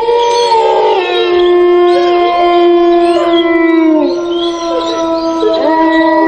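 Several canines howling together: long, overlapping howls, one held steady while other voices slide up and down over it.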